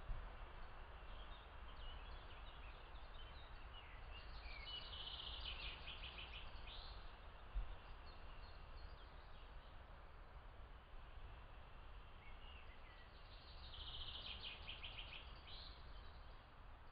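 Songbirds singing over a steady low background noise, with two longer phrases of quick repeated notes, about five seconds in and again near the end. A single brief low thump about halfway through.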